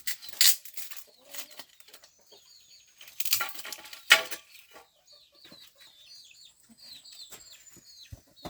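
Farmyard chickens: two loud bursts of wing flapping in the first half, then a run of quick, high peeping chirps.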